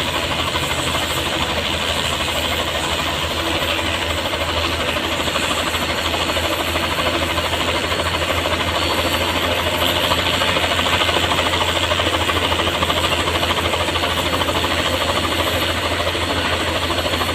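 Helicopter running: a steady rapid chop from the rotor blades over a dense engine roar, growing a little louder about ten seconds in.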